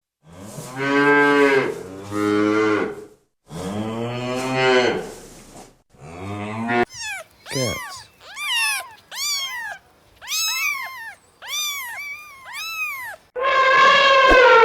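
A cow mooing three times in long, low calls, followed by a run of about nine short, high calls that each rise and fall in pitch. Near the end a different, higher, steadier animal call begins.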